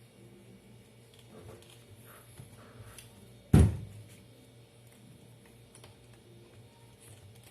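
One loud thump about three and a half seconds in, with a few faint clicks and handling knocks around it over a faint steady low hum.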